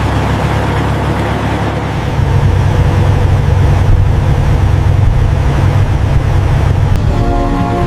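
Steady, loud low rumble of heavy machinery with a noisy hiss over it. Music with sustained notes comes in about seven seconds in.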